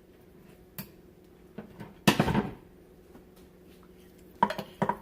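Kitchen handling sounds while tablespoons of collagen are spooned out: a few light clicks and knocks of a spoon and container, with one louder scraping clatter about two seconds in and another cluster of knocks near the end, over a faint steady hum.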